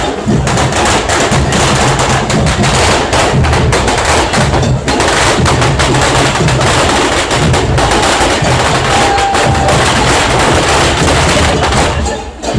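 A dense, rapid string of firecracker bangs crackling almost without a break, with a short lull about five seconds in, over the beat of marching drums. The crackle eases off near the end.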